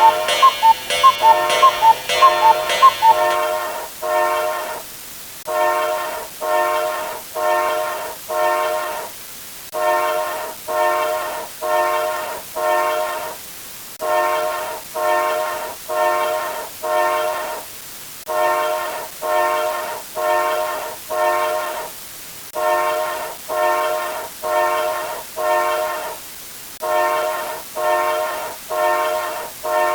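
A horn sounding in repeating groups of four short blasts, about one group every four and a half seconds. For the first three seconds a fast, ringing, alarm-clock-like beeping overlaps it.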